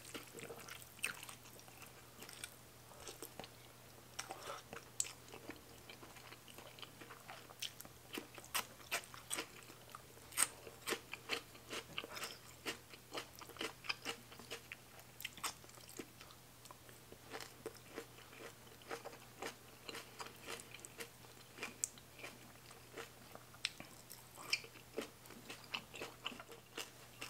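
Close-miked chewing of rice noodles with crisp raw vegetables: many small, irregular crunches and wet mouth clicks.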